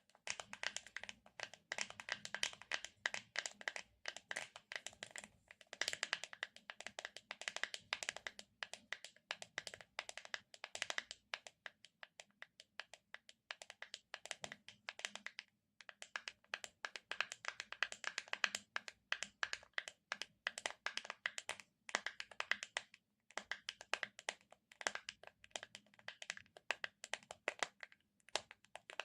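Fingers tapping and peeling off a sticky surface for ASMR: dense, rapid crackling clicks, broken by a couple of brief pauses.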